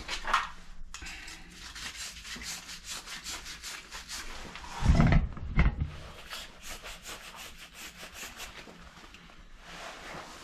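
Rapid back-and-forth rubbing strokes, several a second, in two runs, broken near the middle by two heavy thumps.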